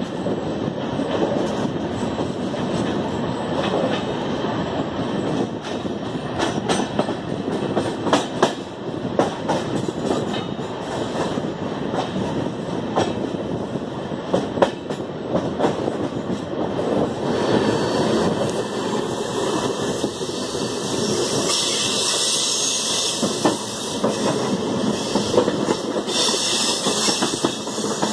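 Passenger train coach running along the track, heard from its open doorway: a steady rumble of the wheels with irregular clacks as they pass over rail joints and points. About two-thirds of the way through, a high hiss joins the rumble.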